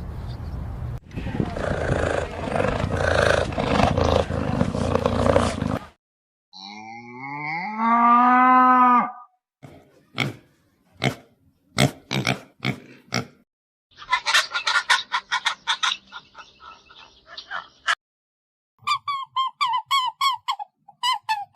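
A series of different animal calls, one after another: a noisy stretch at first, then one long pitched call, a run of sharp clicks, rapid pulsing calls, and repeated short chirping notes near the end.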